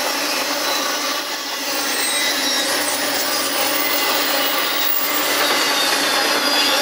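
Double-stack intermodal freight train's loaded well cars rolling past at speed: a steady rushing, grinding noise of steel wheels on rail, with faint thin high-pitched squeals.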